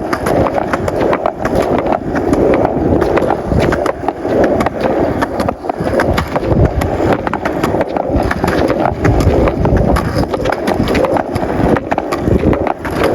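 Skateboard wheels rolling over rough pavement: a steady loud rumble with frequent clacks as the board runs over joints and bumps.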